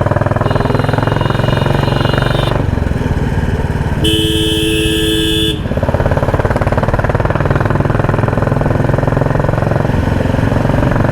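Royal Enfield Classic 350's single-cylinder engine thumping steadily through a loud exhaust while riding. A vehicle horn sounds twice over it: faintly for about two seconds near the start, then a loud two-tone honk of about a second and a half a little after the middle.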